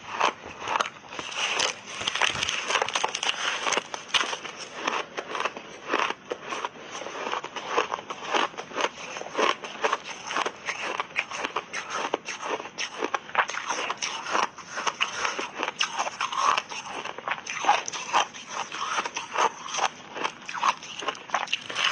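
Ice being bitten and chewed in big bites: a close, continuous run of crisp crackling crunches, several a second.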